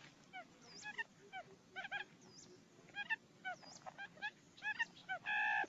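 Quail lure calls: short hooked chirps in quick clusters of two to four, several calls overlapping, with thin high whistled notes between them. A louder, nasal call sounds about five seconds in.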